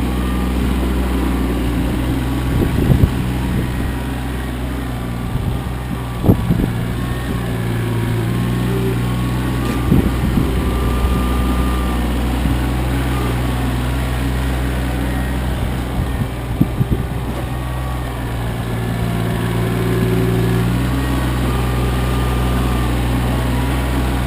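Kioti CK25 compact tractor's three-cylinder diesel engine running steadily under working load, its pitch shifting a little a few times, with several short knocks and clunks from the equipment along the way.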